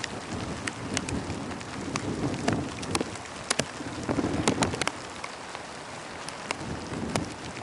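Steady rain falling during a thunderstorm, with many separate drops ticking sharply on a nearby hard surface.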